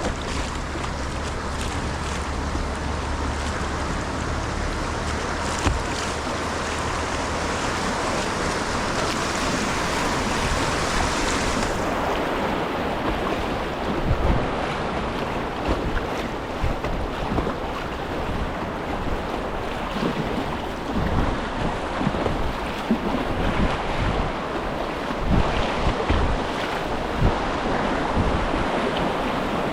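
Rushing whitewater around a kayak, a steady loud wash of splashing water with wind buffeting the microphone. From about halfway on, irregular low thumps and splashes break through the rush.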